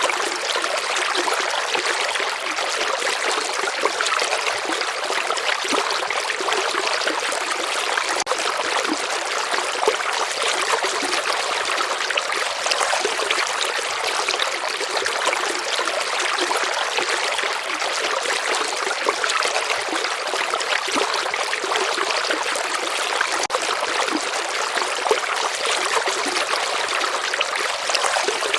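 A river or stream flowing steadily, water rushing and trickling with a constant hiss and no change.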